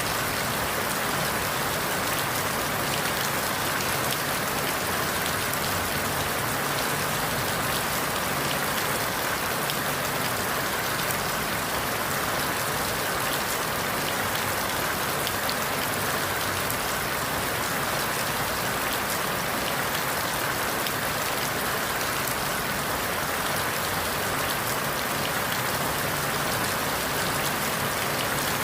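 Steady rain falling through forest leaves, an even hiss with a patter of many small drops and no sudden sounds.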